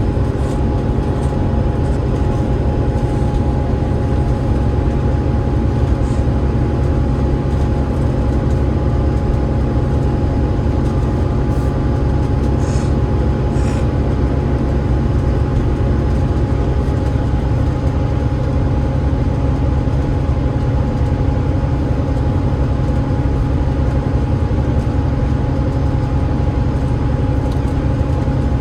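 Enviro500 MMC double-decker bus running steadily, its Cummins ISL8.9 diesel engine and ZF EcoLife automatic gearbox giving a deep rumble with a steady high whine held over it, with no gear change or change in pitch.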